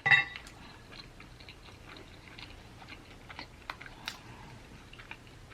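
Close-up eating sounds: chewing and picking meat off a bone, heard as scattered faint clicks and smacks.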